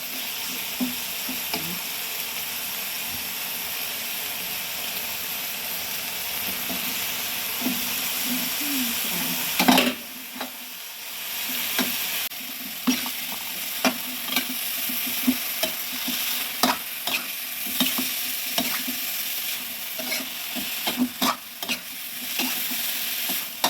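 Wild mushrooms and meat stir-frying in a hot pan: steady sizzling with a utensil scraping and knocking against the pan. There is a loud knock about ten seconds in, and the knocks come more often in the second half.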